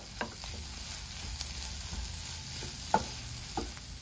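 Egg masala frying with a soft sizzle in a nonstick pan as it is stirred and mixed, with a few short clicks of the utensil against the pan.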